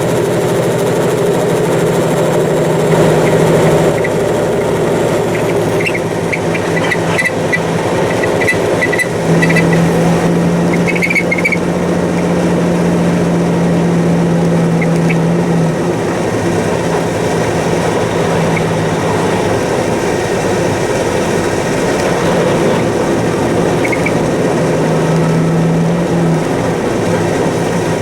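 Peterbilt 379 truck engine running steadily under way, a continuous drone with a low hum that strengthens and fades several times, and a few faint light ticks in the first half.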